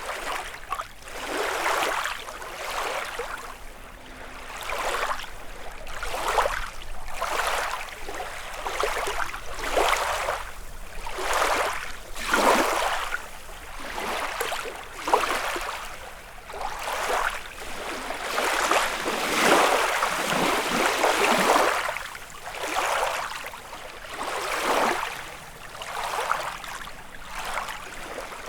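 Small lake waves lapping and splashing on the shore, one wash about every second in an uneven, continuous rhythm.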